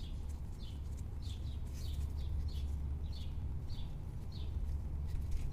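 A small bird chirping repeatedly, short notes falling in pitch about twice a second, over a steady low rumble.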